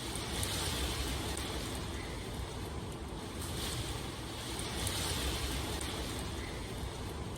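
Steady rain ambience: a continuous hiss over a deep rumble, swelling and easing every second or two.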